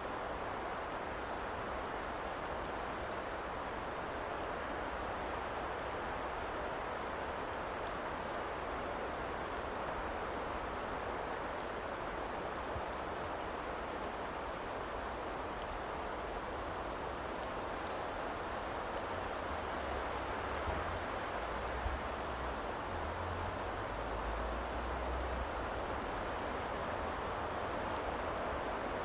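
Steady, even rushing background noise of an outdoor woodland ambience track, with faint high chirps now and then and some low rumbling in the second half.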